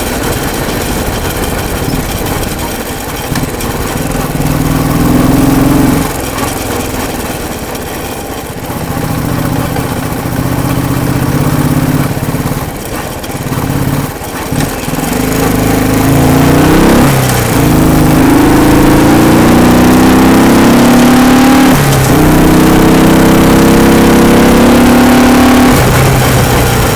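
Royal Enfield single-cylinder motorcycle engine running under way, its pitch rising and falling. In the second half it accelerates through the gears: the note climbs, drops sharply at a gear change and climbs again, twice.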